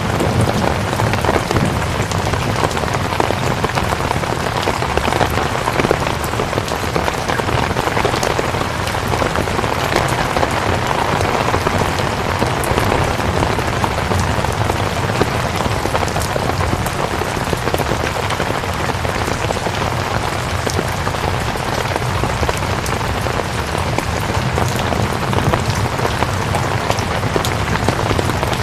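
Steady rain falling: an even, constant hiss with many small, sharp drop ticks scattered through it.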